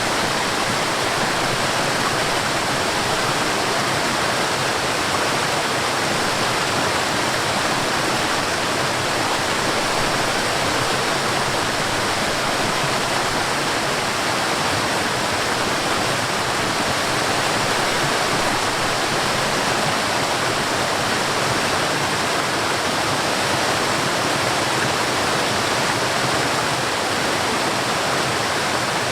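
Waterfall: water falling and rushing in a steady, unbroken roar of white noise, with no changes or separate splashes.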